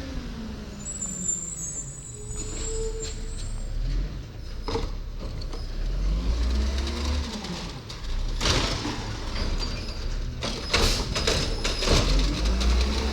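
Garbage truck working a collection stop: the diesel engine runs with its pitch rising and falling as it revs. A brief high squeal comes in the first few seconds, and a run of loud clanks and bangs follows in the second half.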